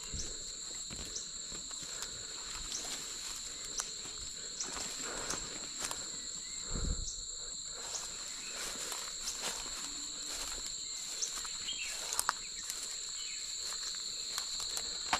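Insects trilling steadily in a high, unbroken drone with a faint regular ticking, plus scattered light knocks and rustles and one dull thump about seven seconds in.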